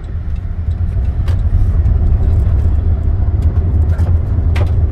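Car driving on a gravel road, heard from inside the cabin: a steady low road rumble that grows louder about a second in, with a few sharp ticks scattered through it.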